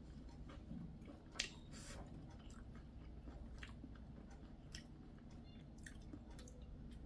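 Faint chewing and mouth sounds of a person eating, with a few small clicks, the loudest about one and a half seconds in.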